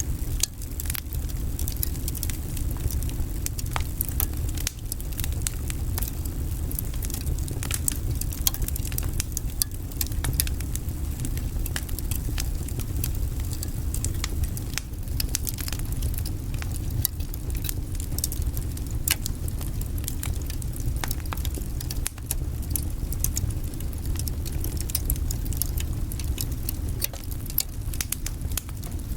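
Wood fire burning in a fireplace: a steady low rumble of flames with many small sharp crackles and pops from the burning logs.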